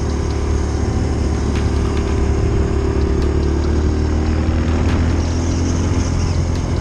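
Dirt bike engine running at a steady, moderate speed while ridden, with a few faint ticks over it.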